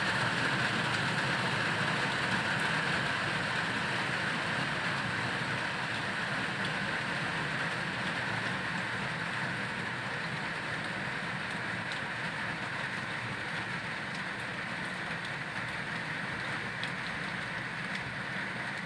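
Heavy rain falling steadily, easing slightly over the stretch, with a low engine hum underneath.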